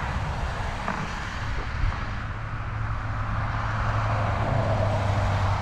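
A road vehicle passing on a nearby highway: its engine hum and tyre noise swell over the last few seconds, over wind rumble on the microphone.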